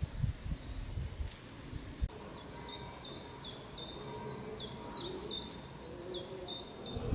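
A songbird singing a rapid run of short, high notes that each drop in pitch, about four a second, starting about two and a half seconds in. Low rumbling on the microphone comes before it.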